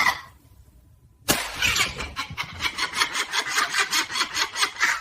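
A sharp click about a second in, then a rapid, rhythmic cackling laugh of about five pulses a second that keeps going.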